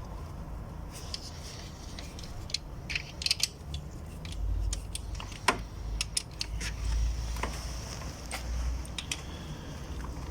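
Ratchet wrench clicking in short, irregular runs as the camshaft bearing cap bolts are snugged down by hand, with a low rumble underneath for a few seconds midway.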